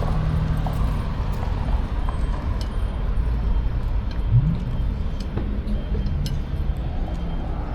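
Wind rumbling over the microphone with street traffic noise while riding a cargo bike, with scattered light clicks and rattles.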